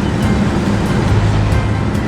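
Steady, loud noise of a moving vehicle, engine and road sound with a low hum.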